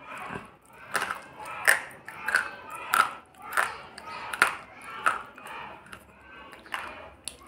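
A slate pencil being bitten and chewed: a steady run of about ten sharp, dry crunches, roughly one every two-thirds of a second.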